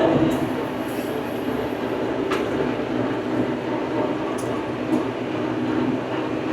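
Old farm tractor's engine running steadily under load while pulling a bush hog rotary cutter, a constant drone with a few sharp clicks and ticks along the way.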